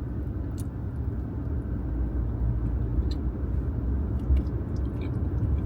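Truck engine running, a steady low rumble heard inside the cab, with a few light clicks over it.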